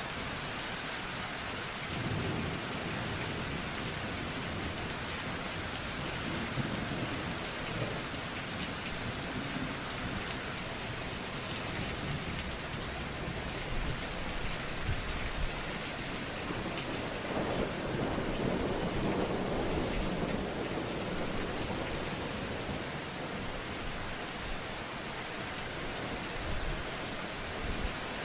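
Steady heavy rain with rolling thunder: low rumbles swell a few times, the longest and strongest about two-thirds of the way through.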